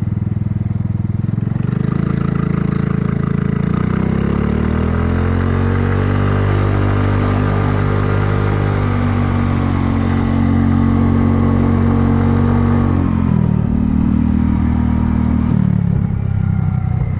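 Kymco People 250 scooter's single-cylinder engine and exhaust under way. The engine note climbs as it accelerates, holds steady, then drops in two steps near the end as it slows. Its exhaust leaks have been plugged with high-heat JB Weld epoxy, so it runs semi-quiet, like a normal scooter.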